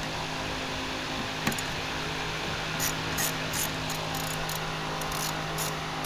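Steady low hum with hiss, with a single sharp click about a second and a half in and a run of light, quick clicks from about three seconds on.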